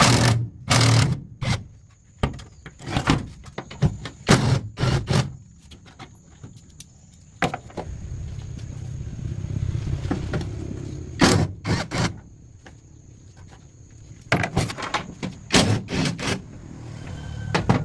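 A series of sharp knocks and thuds at irregular intervals, with a steadier rumbling stretch partway through.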